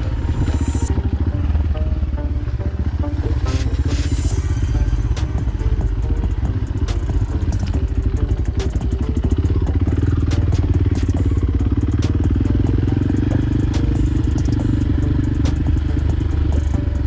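Motorcycle engine running steadily while riding, with many short clicks and rattles that grow more frequent about halfway through.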